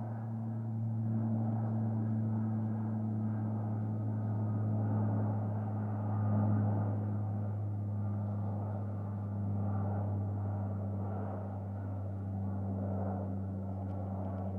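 Aircraft flying overhead: a steady low engine drone with a deep hum, swelling slightly about halfway through.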